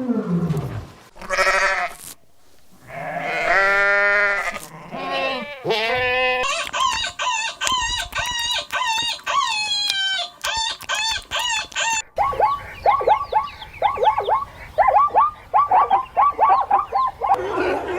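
Farm animals calling in a string of short clips: a goat bleating with a wavering pitch, then fast repeated high calls and a long run of short rising chirps.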